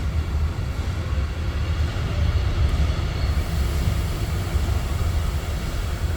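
Historic train running, a steady low rumble.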